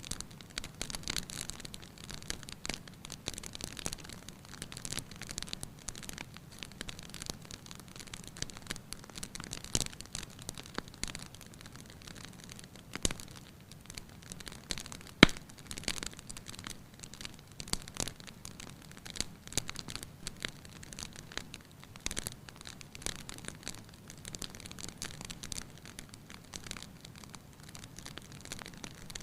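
Wood fire crackling in a fireplace, with irregular pops and snaps; one sharp, loud pop comes about halfway through.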